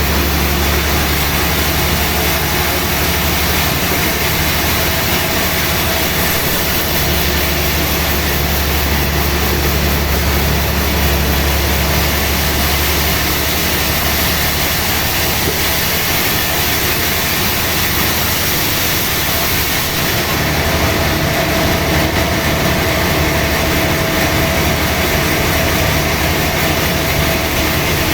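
Sawmill machinery running steadily with a low hum and a dense wash of noise. A higher steady tone joins about twenty seconds in.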